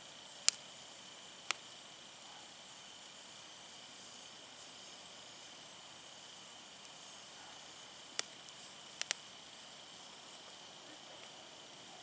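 Wood campfire burning with a faint steady hiss and a handful of sharp crackling pops from the burning firewood, the loudest about half a second in and a quick cluster of three near the end.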